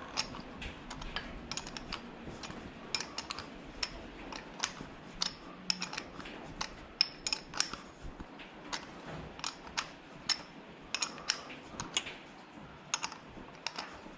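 Irregular light metallic clicks and taps of a spark plug wrench working on a Honda GB250 Clubman's spark plug, as the old plug is unscrewed.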